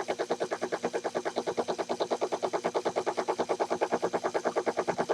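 Small lathe's lead screw powered by a reversible slow-speed motor, running steadily to feed the carriage. It makes a rapid, even clicking of about a dozen clicks a second.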